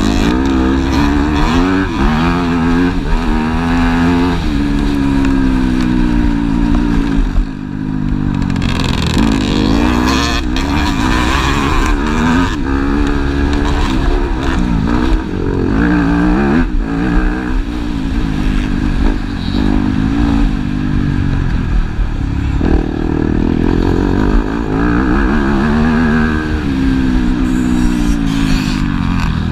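Motocross bikes racing: engines repeatedly revving up and dropping back through the gears, with several bikes overlapping at times.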